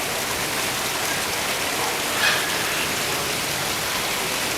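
Steady, even hiss of noise, with one brief higher-pitched sound about two seconds in.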